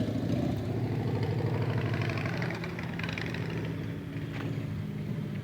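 Motorcycle engines running at low revs, a steady rumble that eases slightly about halfway through.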